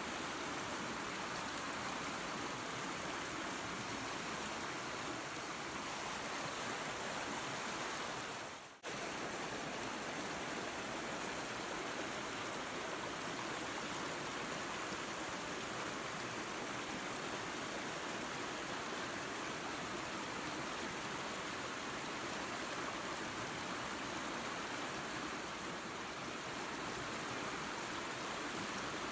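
Waterfall and creek water rushing: a steady, even hiss. Near nine seconds in it dips sharply away for a moment and cuts straight back in.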